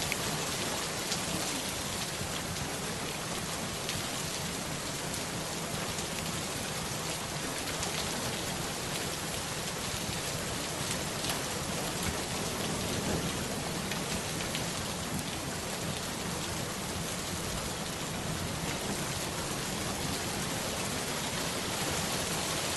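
Steady, even rain falling, with scattered faint drop ticks.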